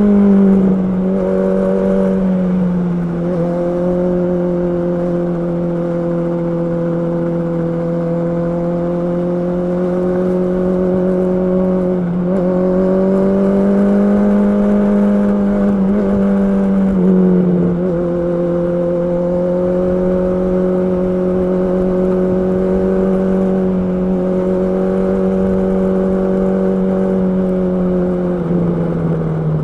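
Honda CB650R's inline-four engine running at a steady, fairly high pitch, with brief dips and recoveries in revs a few times and a lower pitch near the end.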